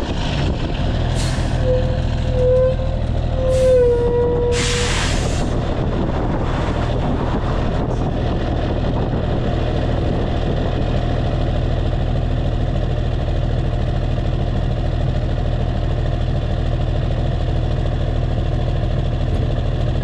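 Straight-piped Cummins ISX inline-six diesel in a Kenworth W900 truck, settling to a steady idle. In the first few seconds a short whistle sounds and the air brakes give several hisses, the loudest about four seconds in.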